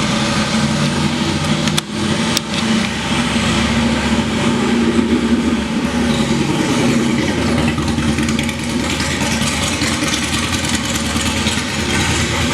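BMW R1200GS's horizontally opposed twin-cylinder engine running steadily, with two short dips in loudness about two seconds in.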